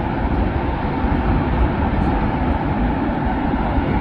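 Jet airliner engine noise: a loud, steady rumble with no breaks.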